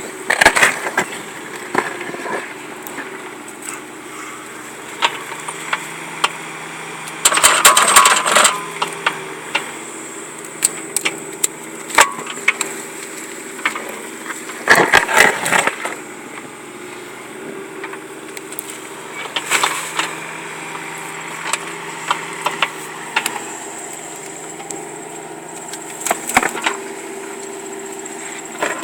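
An engine running steadily, with several short loud noisy bursts (the biggest about 7 to 9 seconds in and around 15 seconds) and scattered clicks.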